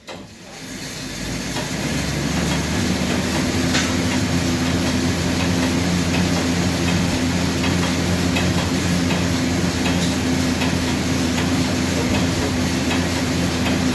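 A steady mechanical whir that builds up over the first two seconds, then runs on evenly.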